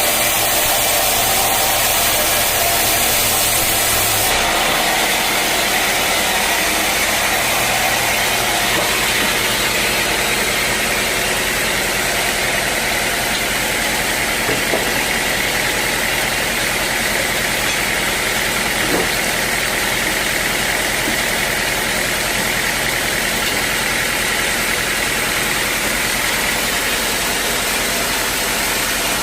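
Sawmill machinery running steadily with a loud mechanical noise. About four seconds in, a high hiss and a low hum cut off, and the machine runs on evenly.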